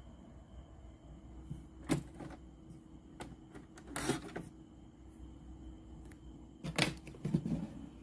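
A few sharp mechanical clicks and knocks from a Sony CFS-515S radio cassette recorder being handled, with a short scrape about four seconds in, over a low steady hum.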